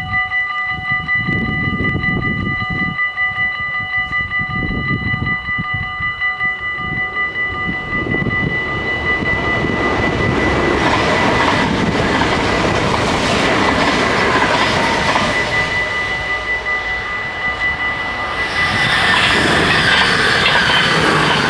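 Level-crossing warning bells ringing rapidly and steadily as an NS ICMm (Koploper) electric intercity train approaches and passes at speed. The train's rumble and wheel clatter build from about eight seconds in and are loudest near the end.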